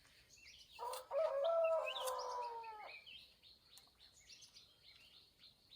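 A rooster crows once, a single call lasting about two seconds and falling slightly at the end, while small birds chirp in the background.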